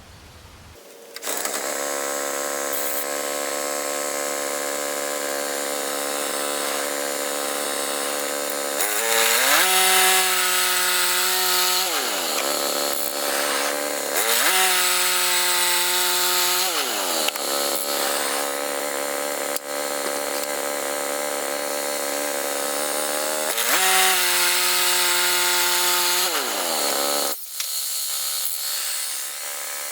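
Gasoline engine of a Woodland Mills HM122 portable bandsaw mill starting about a second in and running steadily, revved up three times for a few seconds each before dropping back, then dropping off near the end.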